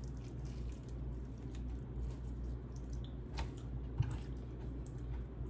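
Close-up chewing and wet mouth sounds of someone eating chicken curry: soft squishes and small clicks over a steady low hum, with a brief knock about four seconds in.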